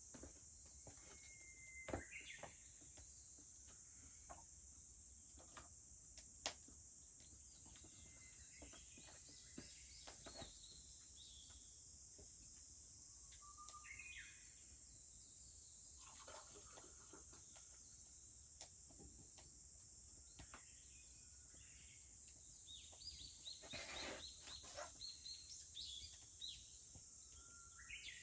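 A steady high-pitched drone of cicadas, with birds chirping and whistling here and there over it, busiest near the end, and a few faint sharp clicks.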